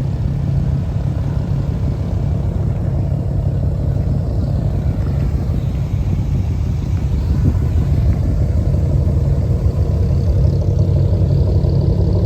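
A car engine running at low speed, a steady low exhaust drone that grows slightly louder about eight seconds in.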